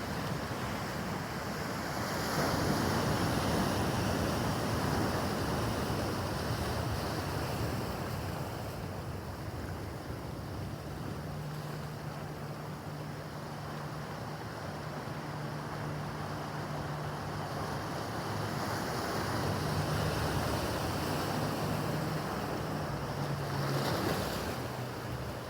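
Rough harbour water washing and wind buffeting the microphone, in two louder swells. From about the middle, a distant boat engine adds a low steady hum under it.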